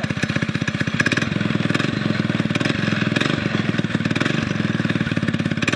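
Predator 6.5 hp single-cylinder four-stroke engine on a homemade mini bike, running steadily through a newly built custom exhaust pipe, with an even, rapid beat of exhaust pulses.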